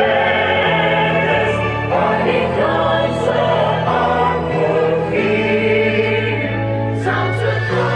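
Choral music: a choir singing in harmony over held bass notes, with the chords changing every second or so.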